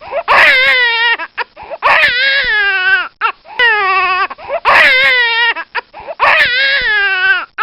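Infant crying: a string of loud, high-pitched wails, each about a second long and falling in pitch, broken by short gasping breaths.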